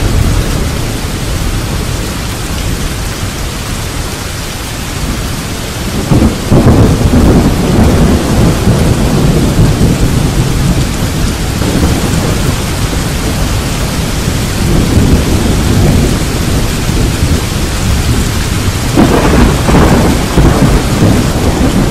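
Steady rain with rolling thunder. A sudden loud rumble breaks about six seconds in, weaker rolls follow, and another loud rumble comes near the end.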